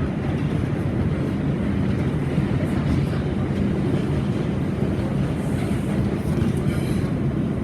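New York City subway 4 train running, a steady low rumble of wheels and motors heard from inside the car.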